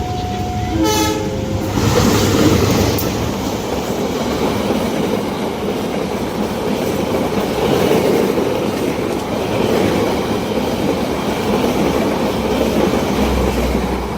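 A train horn sounds briefly about a second in, then a long train runs past over a level crossing with a steady rumble and wheel clatter. The crossing's two-tone warning alarm alternates between two pitches at the start and is then drowned out by the passing train.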